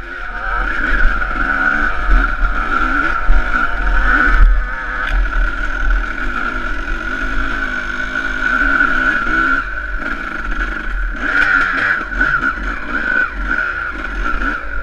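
Motocross bike engine running hard, its pitch rising and falling as the rider works the throttle.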